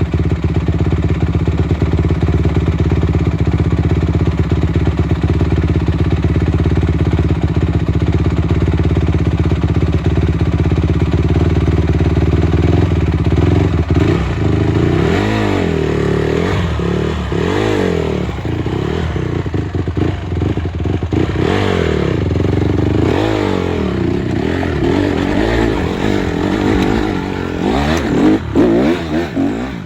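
Motorcycle engine running at a steady pace, then from about halfway revving up and down again and again as the throttle is worked.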